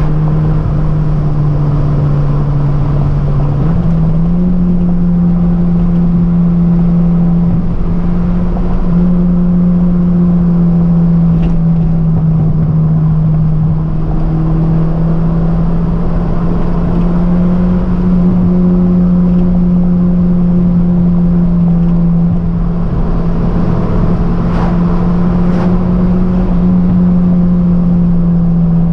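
1989 Toyota Celica GT-S four-cylinder engine heard from inside the cabin, running under way at fairly steady revs, its pitch stepping up about four seconds in. A steady haze of road noise lies underneath, with a few faint clicks around the middle and toward the end.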